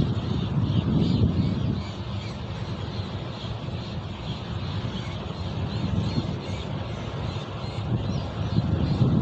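Birds chirping repeatedly in short high calls, with wind buffeting the microphone.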